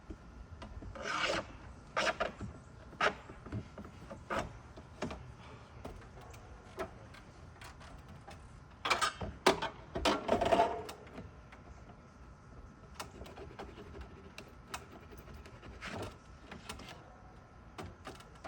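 Cedar shake being worked out of a roof: wood scraping and rubbing against wood, with scattered short knocks and taps. The scraping is loudest about a second in and again around nine to eleven seconds.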